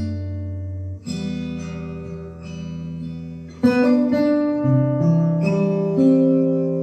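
Solo acoustic guitar playing a slow piece: chords plucked every second or two and left to ring, with a bass note moving underneath.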